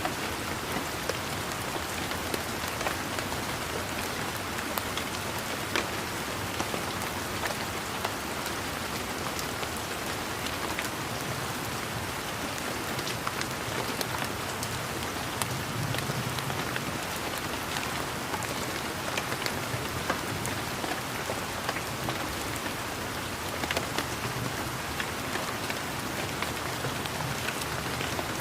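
Steady rain falling, individual drops ticking and pattering on leaves and surfaces over a constant hiss. A faint low rumble swells slightly in the middle.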